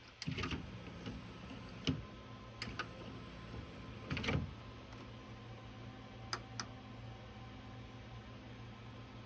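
Luxman D-111 CD player's mechanism at work: a small motor whines for about two seconds, then several clicks and clunks follow, over a steady low hum.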